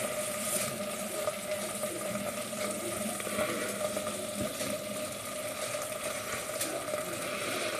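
Risotto cooking down in the pan: a soft, steady bubbling and crackle as the rice dries out, over a steady low hum.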